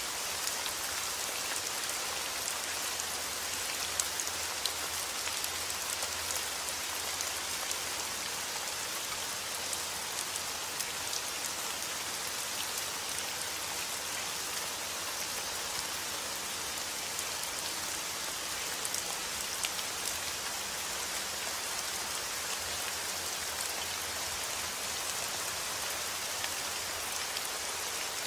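Steady rain falling outdoors, a continuous even hiss with many individual drops ticking sharply on a surface; no thunder.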